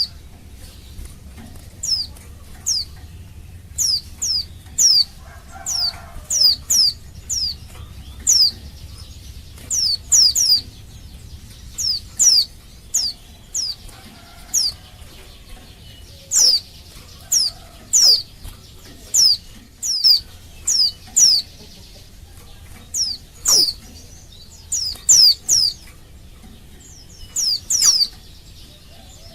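Female white-eye (pleci) giving short, high, downward-slurred call notes, singly or in quick twos and threes at irregular intervals. This is a female in breeding condition calling for a male.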